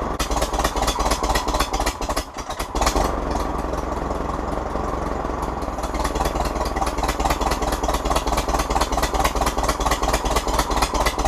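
Farmall H tractor's four-cylinder petrol-paraffin engine running with an even firing beat, dipping briefly about two seconds in.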